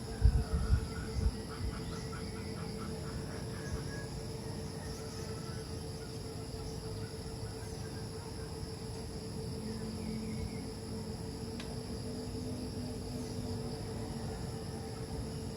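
Steady high-pitched chorus of crickets and other insects over a low steady hum. A brief rapid pulsing call comes about two seconds in, and a few low thumps fall in the first second or so.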